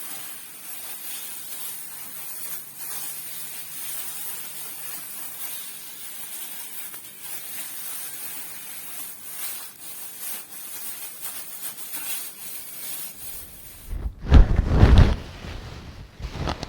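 Rubber-gloved hands rubbing and scratching close to a microphone, a steady fine rustling hiss. About 14 s in it gives way to loud, deep, muffled rumbling as the microphone itself is rubbed, with a shorter one near the end.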